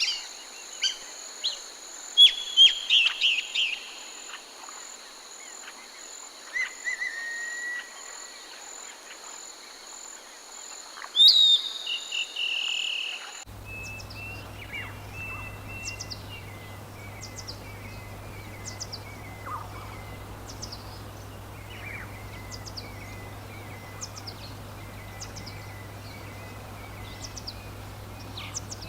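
Jungle ambience: birds calling in short chirps and whistles over a steady high insect drone. About halfway through, the sound cuts abruptly to a different stretch, with a low steady hum under a run of short high chirps and an even trilling.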